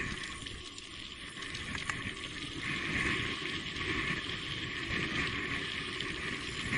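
Steady rushing noise of an electric mountain bike being ridden along a wet, rainy trail, with wind on the microphone. The noise grows a little louder about halfway through.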